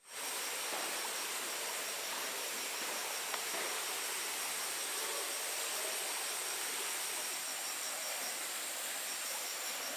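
Steady outdoor hiss with insects calling: one high continuous buzz and a second, slightly lower call that pulses rapidly and evenly.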